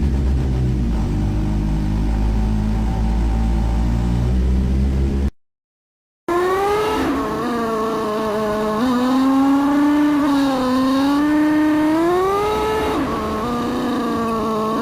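Motorcycle engine: a low steady rumble at first, then, after a second of silence, the engine pulling at higher revs, its pitch holding, rising and dropping sharply a few times, as at gear changes.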